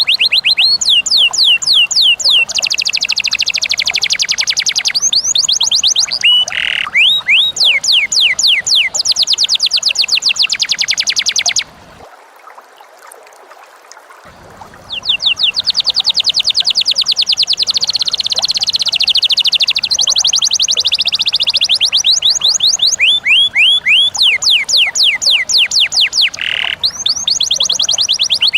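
Lovebird's long 'ngekek' chatter: long runs of rapid, sharp, falling notes, about ten a second, breaking off about twelve seconds in and starting again a couple of seconds later.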